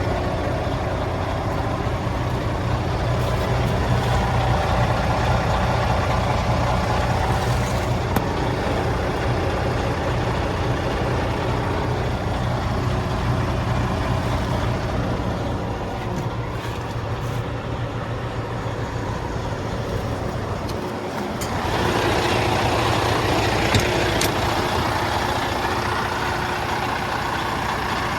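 Heavy truck's Detroit DD15 diesel engine idling with a steady low rumble. About three-quarters of the way through the sound dips briefly, then comes back louder with more hiss.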